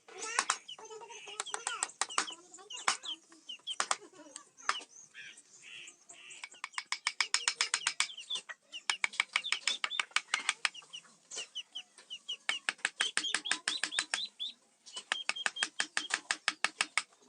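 Mallet striking a carving chisel into teak wood in quick, even taps, about five a second, in runs broken by short pauses.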